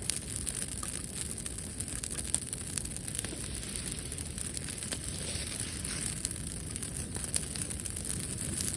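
Wood bonfire crackling, with frequent small snaps and pops over a low rumble, and a steady high hiss above it.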